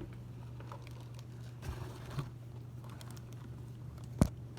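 Soft handling sounds and small clicks on a kitchen counter, with one sharp click near the end, over a steady low hum.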